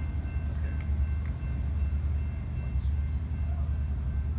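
A train idling at the station: a steady low rumble with a few faint, steady high whines above it and one or two light clicks.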